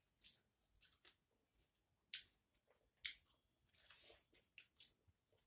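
Faint close-up mouth sounds of a person eating: soft wet clicks and smacks of chewing, scattered through, with a slightly longer one about four seconds in.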